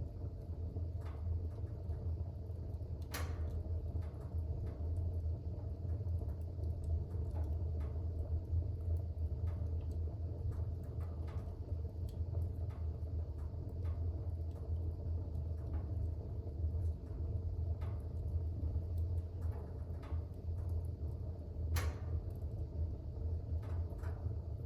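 Fire burning in a fireplace: a steady low rumble with scattered faint crackles, and two sharper pops, one a few seconds in and one near the end.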